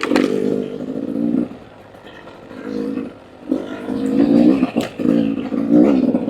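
Two-stroke dirt bike engine revving in bursts as the throttle is opened and closed, dropping back twice in the first half, then held on with the pitch rising and falling.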